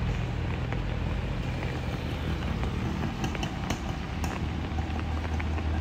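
Vehicle engines running steadily on a steep uphill climb, a low drone under a broad wash of noise, with a few faint sharp ticks about three to four seconds in.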